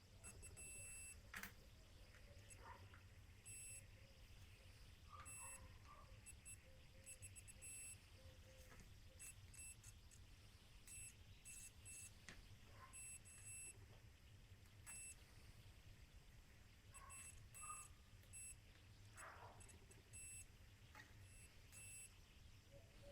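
Faint, short, high-pitched beeps at irregular intervals over a low steady hum.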